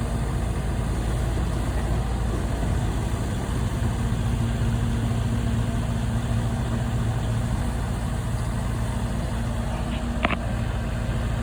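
An engine running steadily at idle, with one short sharp knock about ten seconds in.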